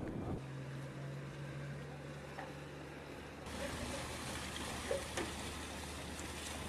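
A boat's engine running with a steady low hum. About halfway through the sound changes abruptly to a lower hum with more rushing hiss of wind and water.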